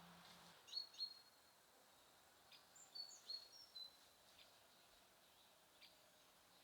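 Faint, short, high chirps of small songbirds at a feeder, scattered and brief, with a small cluster of calls about three seconds in.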